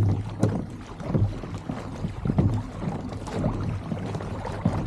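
Water sloshing against a kayak's hull on the open sea, in irregular low surges, with some wind on the microphone.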